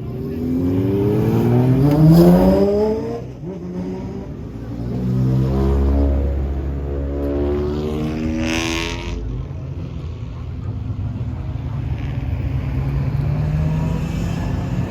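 Modified car's engine revving hard, its pitch climbing to a peak about two seconds in and then dropping, rising again for a second rev in the middle, then running more steadily near the end.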